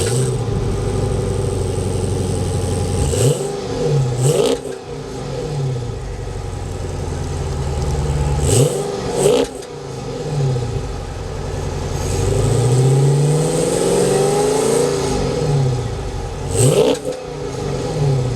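Chrysler 300C SRT-8's 6.4-litre 392 Hemi V8 idling through its exhaust with a steady rumble, blipped to quick revs about five times, in pairs. Past the middle it gives one slower, longer rev that rises and falls back to idle.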